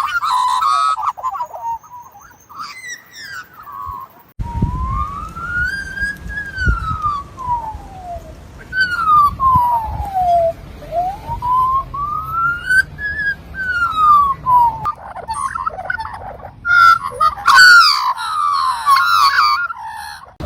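Australian magpie calling: a short burst of warbling carol at the start, then a series of long, slow whistles, each rising and then falling in pitch, and more rich warbling near the end.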